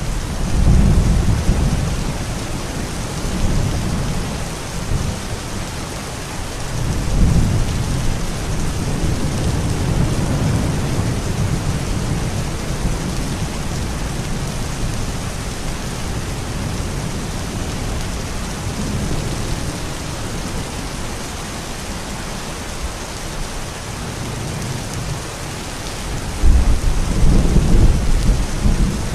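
Steady rain with thunder rolling: a rumble about a second in, another rolling on from about seven seconds, and a louder rumble near the end.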